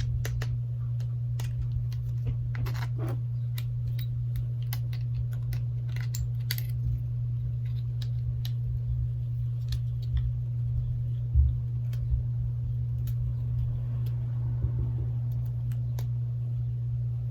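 Small plastic clicks and taps as the snap-on plastic covers are pried off a Galaxy Note 8 and handled, scattered and more frequent in the first several seconds. Under them runs a steady low hum, the loudest thing throughout.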